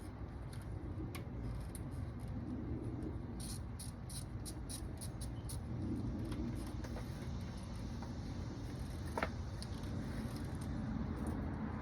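Small light clicks and taps of hand tools and plastic coil-pack parts being worked on an engine, bunched in the middle, with one sharper click about nine seconds in, over a steady low rumble.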